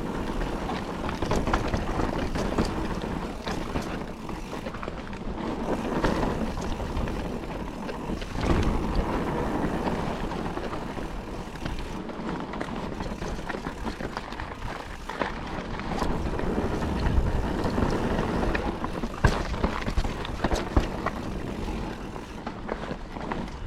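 Calibre Triple B mountain bike riding a dry, loose trail: wind rushing over the action camera's microphone, tyres rolling over dirt and stones, and the bike rattling, with sharp knocks from bumps and roots, several close together about three quarters of the way through.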